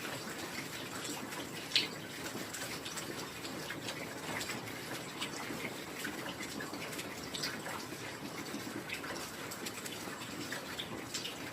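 Rain falling steadily, an even hiss dotted with many separate drips and drops, one louder drop about two seconds in.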